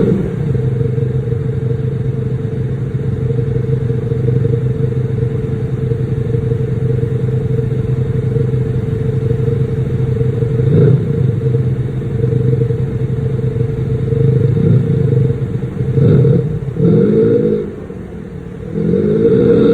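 BMW X3 (G01) fitted with a Maxhaust active exhaust sound system, idling with a steady low drone. There are short revs about eleven seconds in and a few more near the end.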